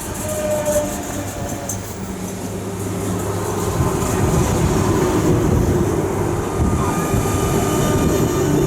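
Electric train running through the station. It grows louder about halfway in as it comes closer, and a steady low hum gives way to a dense rumble of wheels on rails.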